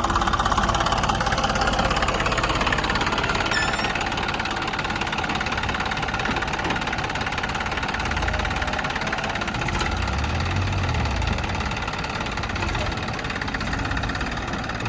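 Diesel engine of heavy machinery running steadily at low speed, with a deeper rumble swelling briefly about two-thirds of the way through.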